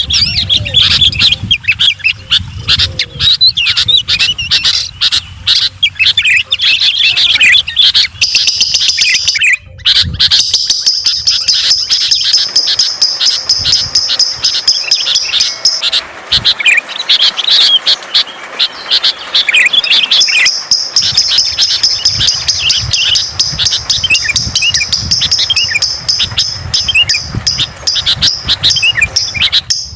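Many birds chirping and calling in rapid, overlapping notes. A steady high-pitched buzz runs under them for much of the time, and the sound breaks off briefly about a third of the way in.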